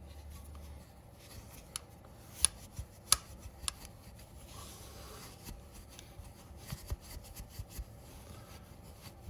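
Abrasive pad scrubbing rust off a chrome motorcycle wheel rim and spokes, with scattered sharp clicks and taps.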